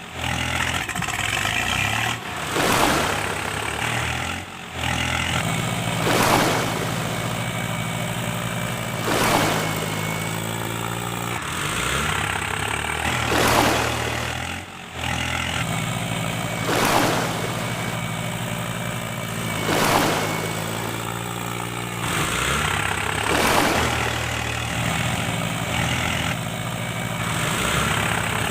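Tractor engine running steadily, with a brief surge about every three to four seconds.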